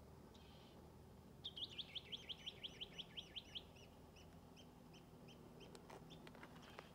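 A bird calling: a fast run of about a dozen high notes, some seven a second, followed by fainter notes that trail off.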